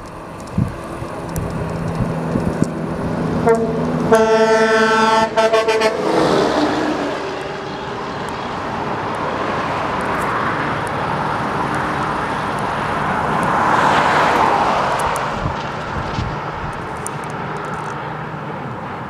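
A truck sounds its horn for about two seconds. Then a truck passes by, its engine and tyre noise swelling to a peak about ten seconds later and fading away.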